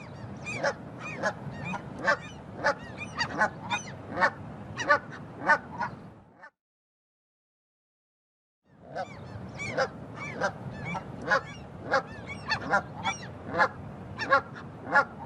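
Canada geese honking, a rapid series of short honks over a background of flock noise. The call plays twice, with a pause of about two seconds between the two runs.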